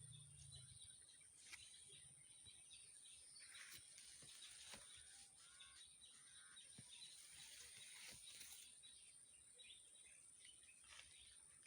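Very quiet forest ambience: faint scattered bird chirps and small clicks over a steady high-pitched tone.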